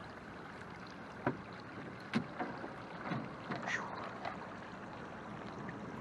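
Canoe being paddled off into the water: a handful of irregular paddle knocks and splashes, starting about a second in and dying away a little past the middle, over a faint steady hiss.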